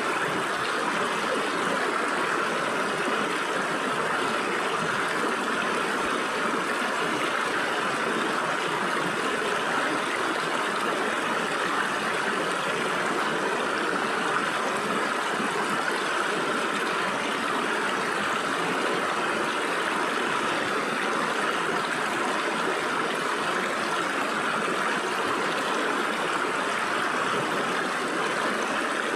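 A shallow stream flowing steadily through gaps between rocks, a continuous babble and trickle of water.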